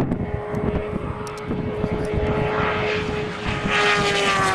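An engine drone passing by: a steady pitched note that slowly falls in pitch near the end as it goes past.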